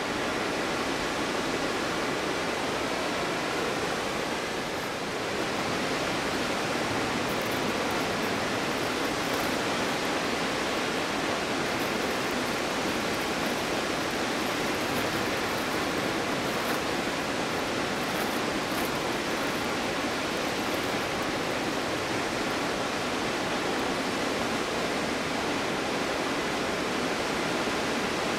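Waterfall crashing steadily in winter, a continuous even rush of falling water that dips slightly about five seconds in.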